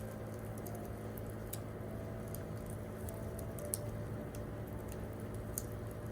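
Wood campfire crackling: scattered sharp pops and ticks, with two louder pops, one a little past halfway and one near the end, over a steady low rumble. A few faint, soft piano notes sound underneath.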